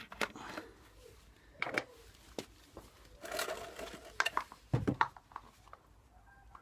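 Scattered clicks and knocks of hand work on a motorcycle, with a brief scraping rustle about three seconds in and a heavier knock near five seconds.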